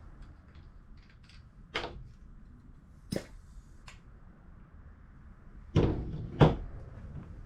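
Hammer striking an old RockShox Judy suspension fork during disassembly: four sharp knocks, the last two close together and loudest, with small clicks of handling in between.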